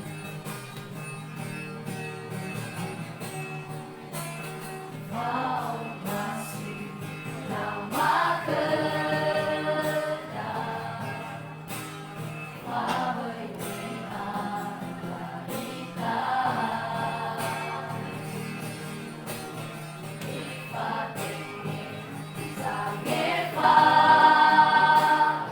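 Vocal group singing a gospel song in harmony, with a steady low sustained part underneath. High sung phrases rise above the group every few seconds, the loudest and highest near the end.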